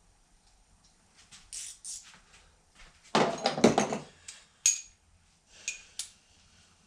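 Scattered knocks and clicks of tools and parts being handled, with a louder burst of clatter lasting about a second, about three seconds in.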